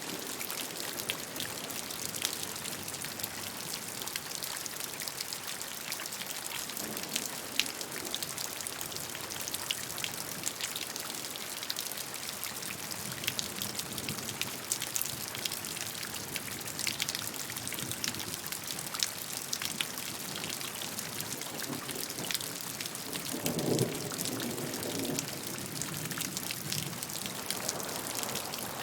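Steady rainfall: an even hiss dotted with many individual drops pattering on a surface. About three quarters of the way through there is a brief low rumble.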